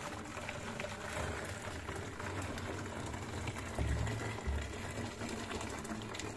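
Water at a rolling boil, bubbling with a steady dense crackle, with a couple of low thumps about four seconds in.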